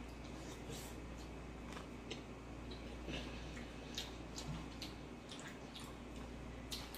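Quiet eating sounds: chewing with scattered wet mouth clicks and smacks, as noodles and a soft egg roll are eaten, with a few light taps.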